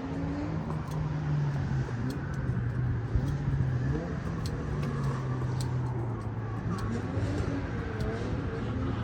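Motor vehicle engines running with a steady low hum, some gliding in pitch, with people talking faintly in the background.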